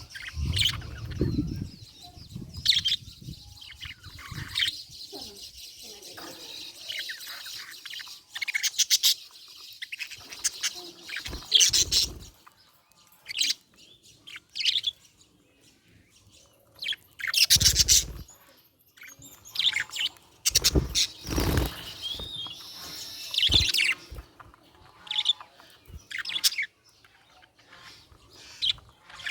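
Budgie (budgerigar) chirping and chattering in quick, irregular bursts, with a few louder, harsher spells.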